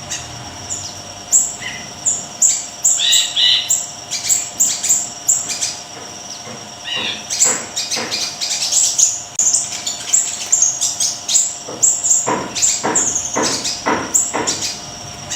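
Small songbird, kept in Indonesia as 'siri-siri kecil', singing a fast run of high, sharp chirps and short trills, broken by brief pauses.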